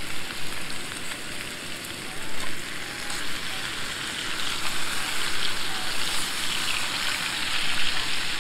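Pork and kimchi sizzling in a small pan over a backpacking gas canister stove, stirred with chopsticks. The sizzle grows louder about halfway through.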